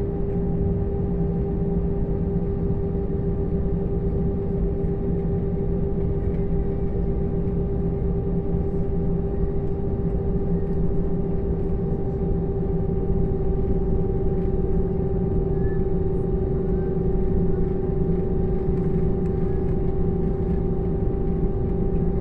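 Airliner cabin noise during the taxi before takeoff: the engines at low power give a steady hum with one strong constant tone over a low rumble, getting slightly louder near the end.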